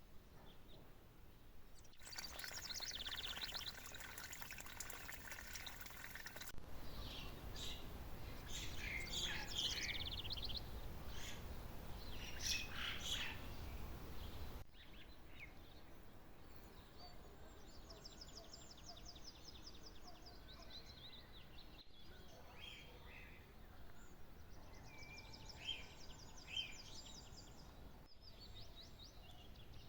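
Small songbirds chirping and singing: a mix of short high chirps and rapid trilled phrases. The background changes abruptly every several seconds, as at edits between recordings.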